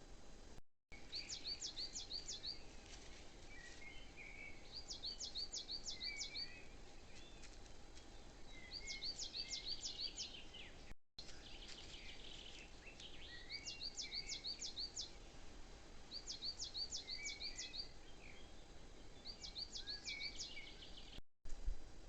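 A songbird singing the same short phrase over and over, a quick run of five or six high sweeping notes about every two to three seconds, with softer lower chirps in between. The sound drops out briefly twice.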